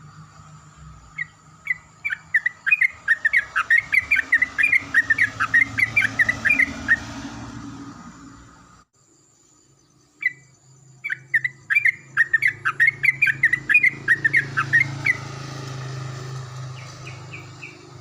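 Yellow-vented bulbul (trucukan) singing: two loud bursts of rapid, bubbling chirpy notes separated by a short pause, with a lone note before the second burst.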